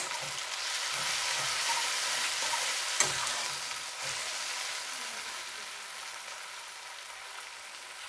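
Chopped tomatoes sizzling as they fry in hot mustard oil in a kadhai, while a spatula stirs and scrapes through them, with a sharp clack of the spatula on the pan about three seconds in. The sizzle grows quieter over the second half.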